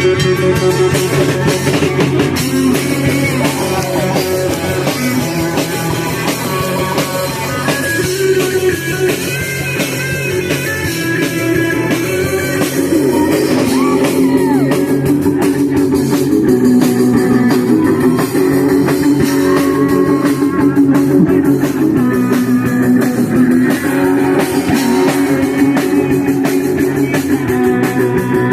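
Punk rock band playing live: guitars over a pounding drum kit, loud and continuous.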